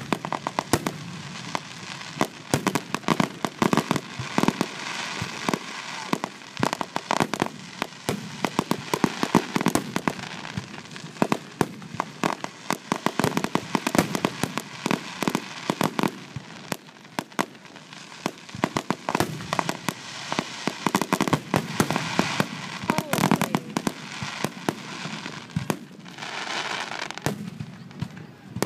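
Aerial fireworks display: shells launching and bursting overhead in quick succession, a dense run of bangs and crackle that thins out near the end.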